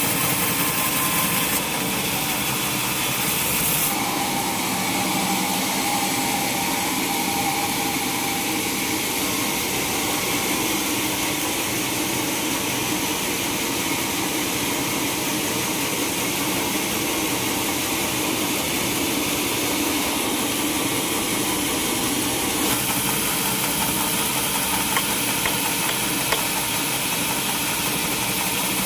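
Sawmill machinery running steadily, a continuous mechanical hum under a hissing noise. The sound shifts about four seconds in and again a few seconds before the end.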